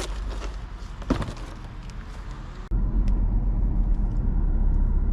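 A few clicks and handling knocks, then an abrupt change about two-thirds of the way in to a steady low rumble of a car running.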